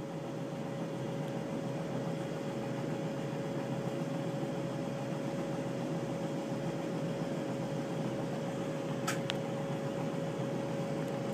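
Steady hiss and hum of a glass bead-making setup running as the glass is melted, with a constant hum through it. Two faint clicks about nine seconds in.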